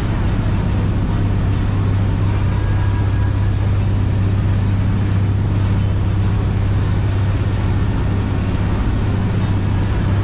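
A boat's engine running steadily while under way, a constant low hum under an even rush of noise.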